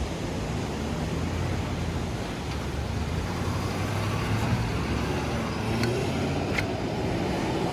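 Ford F250 pickup truck driving at a steady pace, its engine humming low with road and wind noise. Two short sharp ticks come near the end.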